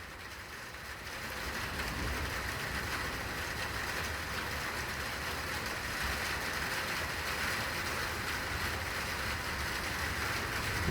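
Rolling thunder rumbling low, swelling about a second in and holding, with a steady hiss over it.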